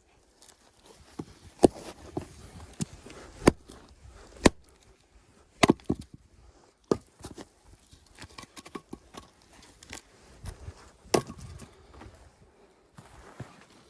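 Axe chopping firewood: about half a dozen sharp knocks at irregular intervals, a second or more apart, one of them a quick double strike.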